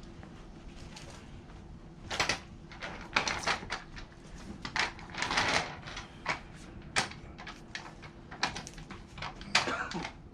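Irregular clunks, knocks and short scrapes of a heavy standby generator being shifted by hand, starting about two seconds in, with a longer scrape near the middle.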